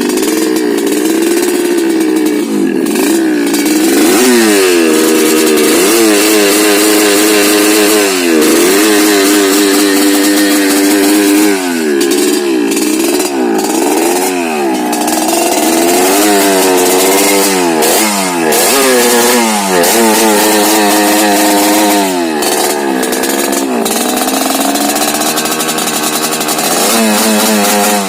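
Yamaha RX-King two-stroke single-cylinder motorcycle engine revved repeatedly through a racing 'kolong' exhaust, its pitch rising and falling again and again, about once every second or two.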